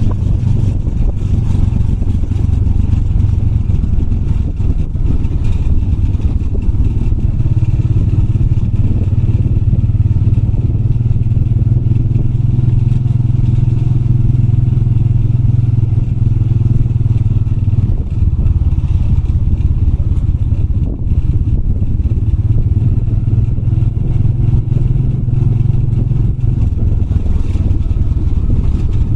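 Motorbike engine running steadily under way, with a low, even engine note and some clatter from the bike.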